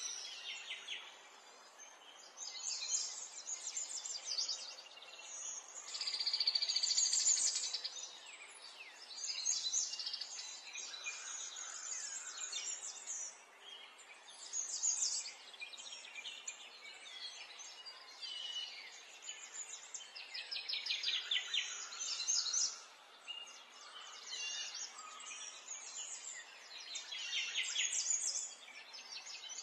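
Songbirds singing: bursts of rapid high trills and chirps every few seconds over a faint steady hiss.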